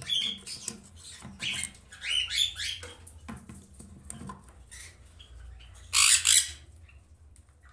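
Conures squawking: a string of short, harsh calls, then two loud screeches in quick succession about six seconds in.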